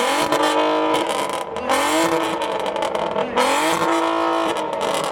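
Car engine accelerating hard. Its pitch climbs, drops suddenly and climbs again, twice, as it goes up through the gears.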